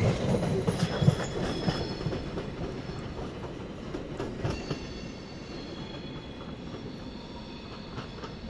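Double-deck passenger train running away over the station points, its wheels clacking loudly over rail joints and switches for about the first second. Thin, high wheel squeal follows, and the whole sound fades steadily as the train draws off.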